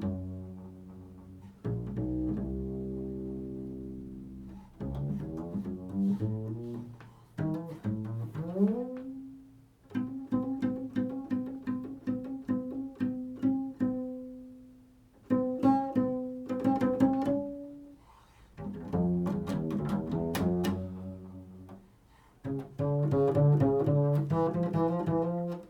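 Improvised solo string-instrument music: low plucked notes that ring out and fade, some sliding up in pitch about eight seconds in, and a run of quickly repeated notes in the middle.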